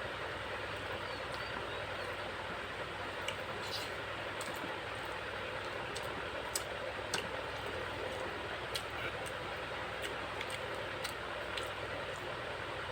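Eating sounds: short, sharp clicks at irregular intervals over a steady background hiss.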